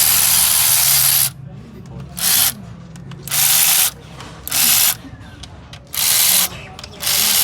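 A compressed-air tool run in six short hissing blasts, the first over a second long and the rest shorter, with brief pauses between them.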